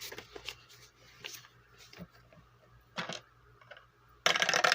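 Light scattered clicks of small objects being handled, then about four seconds in a quick, dense clatter of a die rolling on a hard surface.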